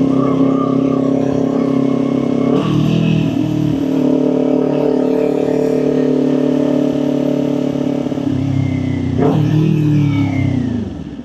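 Kawasaki Ninja 400's parallel-twin engine running at steady riding revs, with two brief breaks in the note, about two and a half seconds in and again around nine seconds. Near the end the engine note falls and the sound drops away as the throttle is rolled off.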